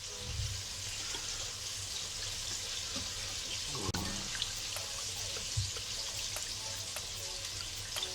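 Chicken wings frying in hot oil, a steady sizzle, with light scattered clicks from the wet waffle batter being beaten in a bowl.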